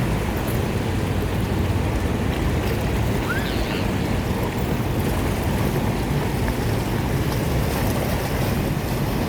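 Steady low hum of a boat's motor over water and wind noise, with one short rising squeak about three seconds in.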